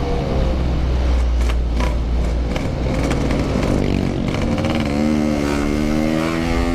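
Yamaha RX-King two-stroke motorcycle engine running on the move, heard over road noise; its pitch sags and then rises as the throttle opens about five seconds in.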